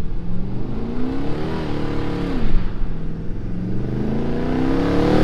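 Car engine revving. The pitch climbs, holds briefly and falls off about halfway through, then climbs again steadily toward the end.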